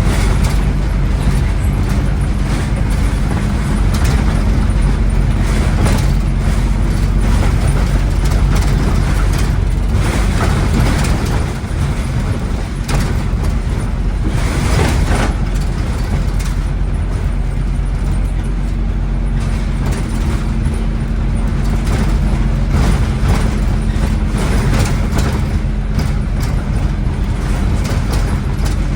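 Scania N270UD OmniCity double-decker bus running on the road, heard from on board: its diesel engine drones steadily under frequent rattles and knocks from the body and fittings. The engine note eases off about 12 seconds in and builds again later.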